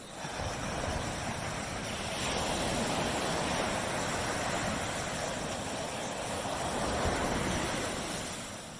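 Ocean surf washing onto a beach: a wave comes in just after the start and its wash rushes on steadily before easing off near the end.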